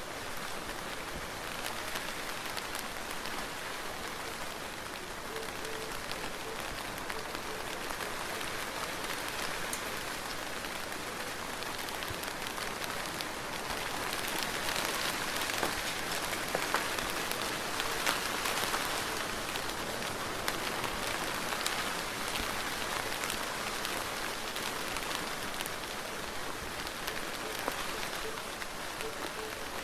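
Soft, steady rain falling, a dense patter of drops that swells a little in the middle.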